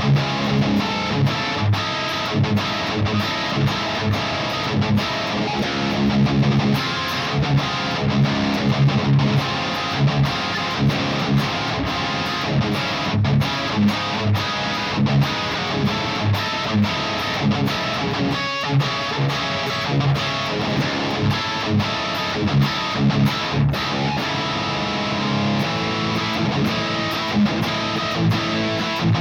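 High-gain electric guitar, a Music Man Monarchy Majesty through a MESA TC-100 amp's blue channel pushed by an EQ/boost pedal, playing rhythmic metal riffs. The riffs are punchy chugs with clean, abrupt stops from a noise gate.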